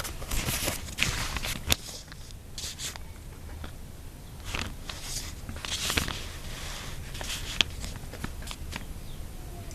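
Pen writing on paper: short scratching strokes with a few sharp clicks and rustles.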